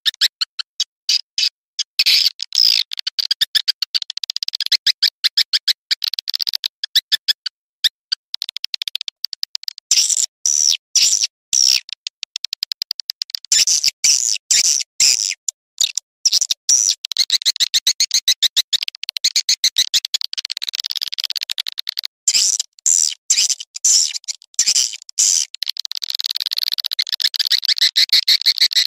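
Swiftlet lure call played back: fast trains of high, chirping clicks, broken every few seconds by short gaps.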